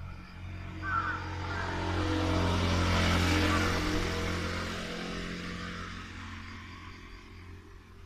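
A motor vehicle passing close by: engine and tyre noise swelling to a peak about three seconds in, then fading away over the next few seconds. A crow caws briefly about a second in.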